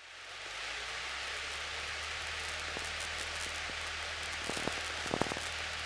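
Cessna 172's four-cylinder piston engine going to full power for the takeoff roll, heard from inside the cockpit as a steady rushing noise over a low hum. It rises over the first half second, then holds steady, with a few faint clicks near the end.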